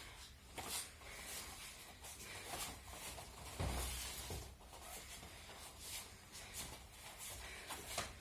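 Aikido practice on mats: irregular shuffling and rustling of feet and training uniforms, with a heavier thud about three and a half seconds in, likely a body landing on the tatami.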